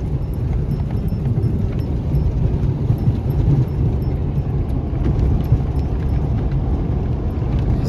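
Ford F-250 pickup truck running, a steady low rumble.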